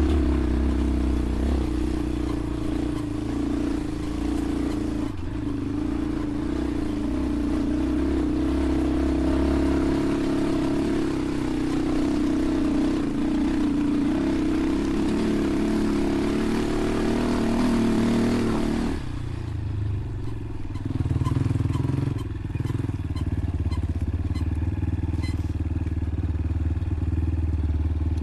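Dirt bike engine running steadily while riding on a trail; about two-thirds of the way through, its steady note breaks off and drops lower.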